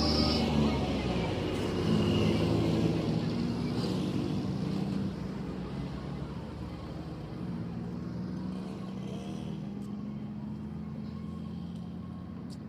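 A vehicle engine running with a steady low hum, louder for the first five seconds and then settling lower.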